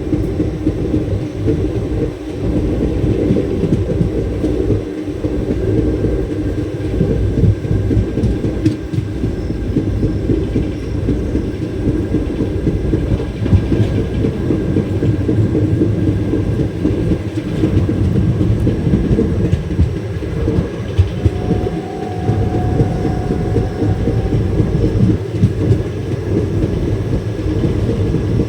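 A train running along the track: a loud, steady low rumble, with a faint brief whine about three quarters of the way through.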